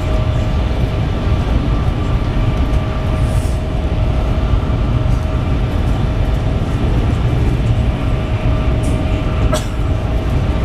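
CRH high-speed train running at speed: a steady low rumble with a faint steady whine over it. There is a single sharp click near the end.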